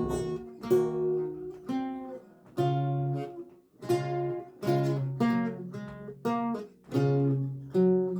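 Solo lute music: plucked melody notes and chords over sustained low bass notes, each note struck sharply and then dying away.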